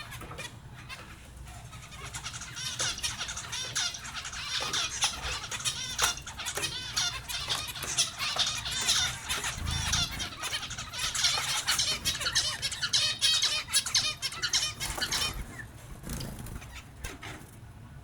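Small finches chirping and twittering in a dense run of quick, high calls, busiest through the middle and thinning out near the end.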